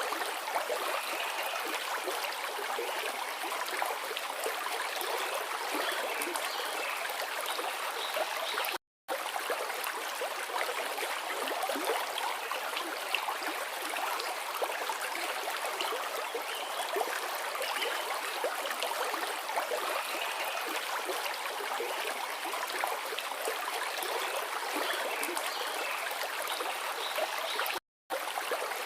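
A forest river flowing: a steady rushing of water with little low rumble, broken twice by a brief total silence, about nine seconds in and near the end.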